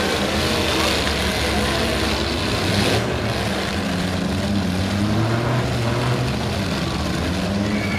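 Engines of several demolition derby stock cars running and revving together, a steady loud drone with the pitch wavering up and down.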